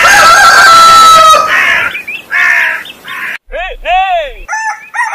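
A rooster crows once in a long, loud, held call, followed by a few shorter rough calls. About three and a half seconds in, music with sliding, arching notes like a violin begins.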